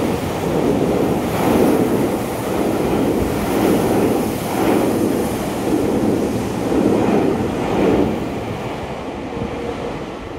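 Tokyu Toyoko Line electric commuter train running past the platform: a loud rushing and rumbling that swells every second or two as the cars go by, easing near the end.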